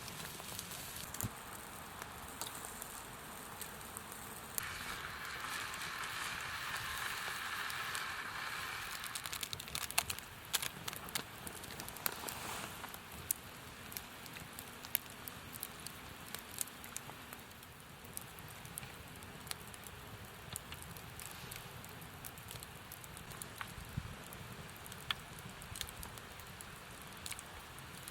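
Campfire crackling, with scattered sharp pops throughout and a steady hiss from about four and a half to nine and a half seconds in.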